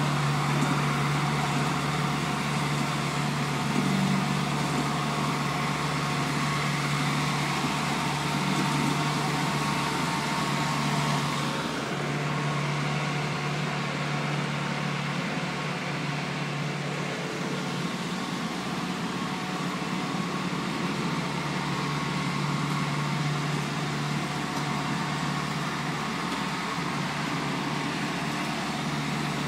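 Engine of a truck-mounted slurry seal paving machine running steadily with a constant low hum.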